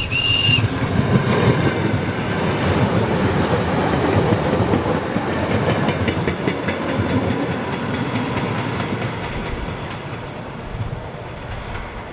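A train passing close by, its rumble and wheel noise swelling about a second in and slowly fading away. A brief high tone sounds right at the start.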